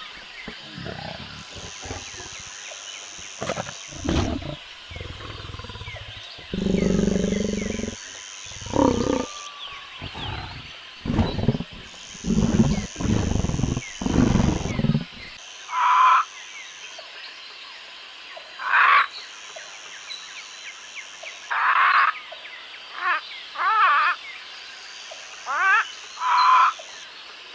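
Wild animal calls: a series of deep, low roars or grunts through roughly the first half, then, after a change about halfway, shorter and higher calls repeating every second or two. A high, steady buzz comes and goes in the background throughout.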